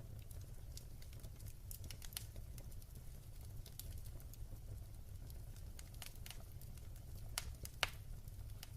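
Wood fire burning in a fireplace, crackling with irregular sharp pops over a low steady rumble, the two loudest pops close together near the end.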